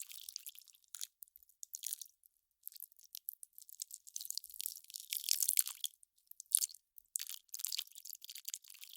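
Melting ice crackling and popping: irregular clusters of tiny high-pitched crackles with short pauses between them.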